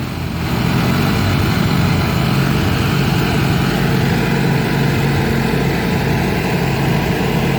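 Several riding lawn mower engines running steadily, held on the start line before a drag race.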